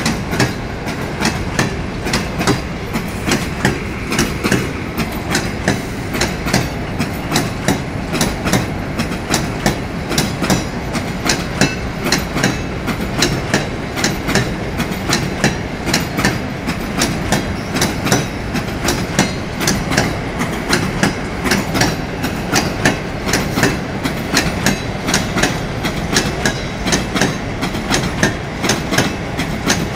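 A train running on the rails: a steady low rumble with the wheels clicking over rail joints several times a second.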